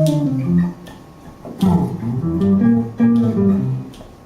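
Guitar playing an instrumental passage of a song: phrases of plucked notes and chords, each dying away, with short gaps between phrases.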